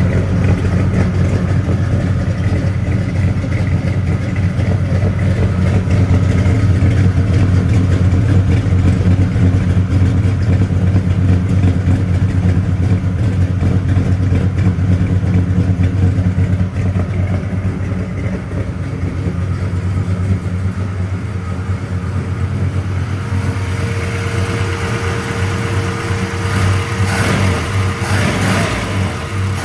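1966 Chevelle's stroker V8 running steadily at idle, with a deep, even low hum; near the end a few sharper, higher sounds come in over it.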